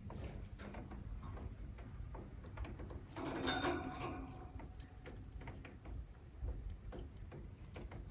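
Bengalese (society) finches moving about, making scattered light clicks and taps, with one short, loud, buzzy call about three seconds in.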